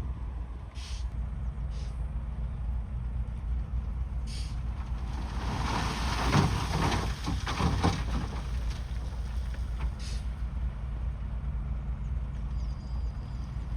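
Heavy earthmoving machine's diesel engine running steadily, with a louder rough, crackling noise for about three seconds in the middle. Brief high hisses come three times.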